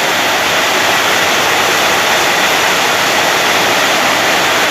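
Heavy rain pouring down: a loud, steady, dense hiss.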